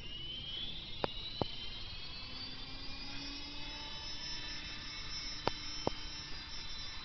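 Small RC helicopter's motor and rotor whining, rising in pitch over the first couple of seconds and then holding steady. Two pairs of short sharp clicks, about a second in and about five and a half seconds in.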